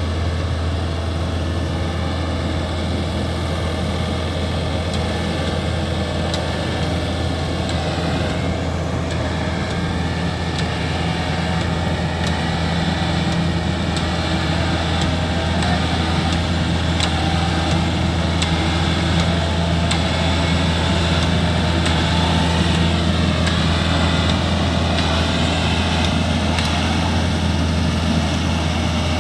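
Diesel engine of heavy farm machinery running steadily at constant speed, a deep even drone that grows a little louder through the middle.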